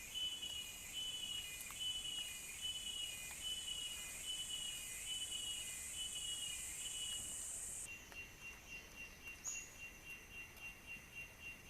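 Insects buzzing and chirping: a high, steady buzz that cuts off suddenly about two-thirds of the way in, over a chirp repeated roughly twice a second, with a thinner steady trill carrying on after the buzz stops.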